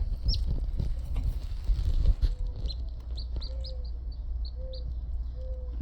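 Newly hatched chicks peeping: short, high peeps a few times a second from about halfway in, over a steady low hum and some handling noise in the first couple of seconds.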